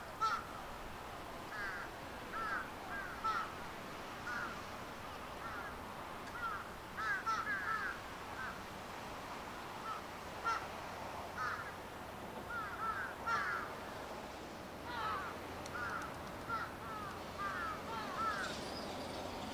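Birds calling repeatedly, many short hooked calls, often in quick clusters, over a steady faint hiss.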